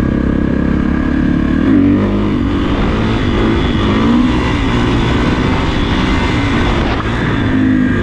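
Kawasaki KX450F dirt bike's single-cylinder four-stroke engine running while riding, the revs rising and falling around two seconds in and again near four seconds.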